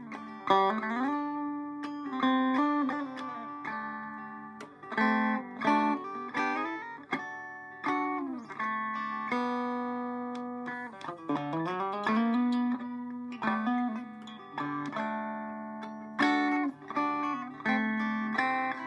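Electric Vega banjo (circa 1936–37) played in old-fashioned claw hammer (frailing) style: a steady run of plucked chords and single notes with the fifth string repeating. Several notes slide up or down in pitch.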